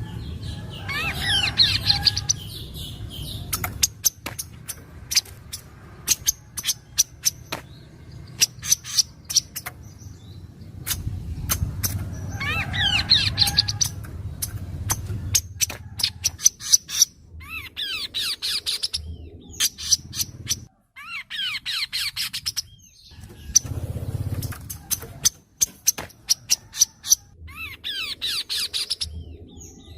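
Kaso-kaso bird calling: a string of sharp, separate ticking notes, broken by about five short bursts of rapid, sweeping trilled song. This is a masteran recording made to prompt caged kaso-kaso birds to answer.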